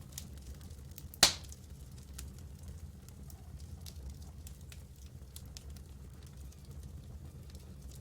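Campfire crackling with scattered small pops and one loud, sharp pop about a second in, over a steady low rumble.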